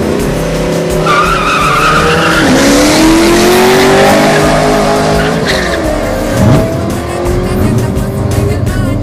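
A racing vehicle's engine accelerating hard in a drag-strip run, its pitch climbing twice as it goes up through the gears. A brief tire squeal comes about a second in.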